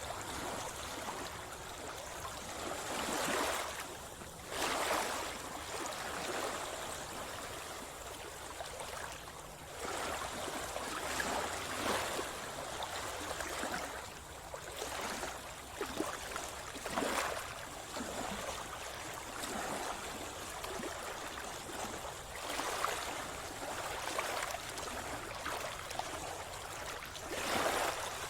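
Sea water splashing and gurgling around a swimmer, with irregular louder swishes every few seconds over a steady wash of moving water.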